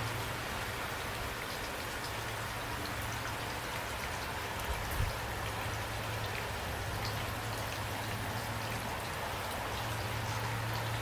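Steady rain falling, with scattered individual drops ticking on a surface over a constant low rumble. A brief dull thump about five seconds in.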